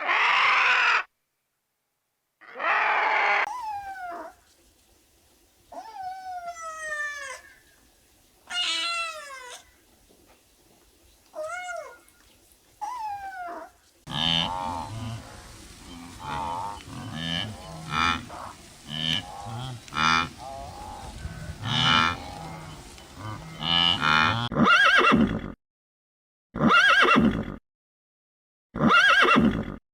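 Animal calls from several short edited clips. Two loud calls open it, followed by a run of repeated calls that each fall in pitch. From about halfway comes a busier stretch of repeated calls, ending in loud short calls separated by silent gaps.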